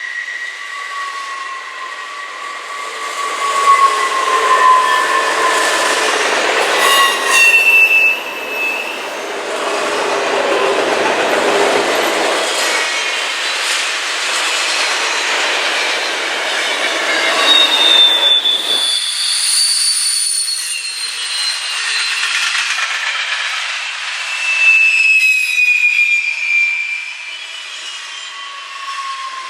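Train rolling past with its steel wheels squealing on the rail: a shifting series of high screeching tones over the rumble and clatter of the cars.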